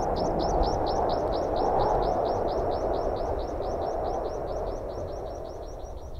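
A bird repeating one short, high chirp rapidly and evenly, about six times a second, over a steady rush of wind. Both fade slowly towards the end.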